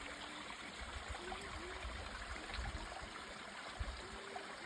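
Natural spring water cascading down a slope into a stream, a steady rushing splash, with a low rumble through the middle.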